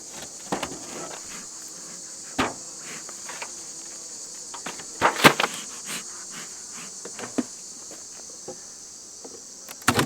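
Steady high-pitched chirring of late-summer insects such as crickets, with a scattered series of sharp knocks and clatters. The loudest knocks come in a cluster about five seconds in.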